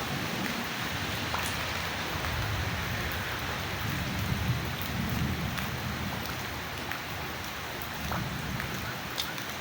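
Steady rain falling, with scattered individual drips ticking. A low rumble swells and fades in the middle.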